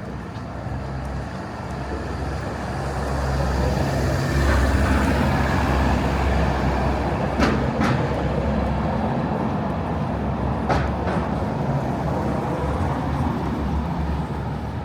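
Street traffic, with a heavy vehicle running past: it grows louder about three seconds in and eases off after about eight seconds. A few sharp clicks come near the middle.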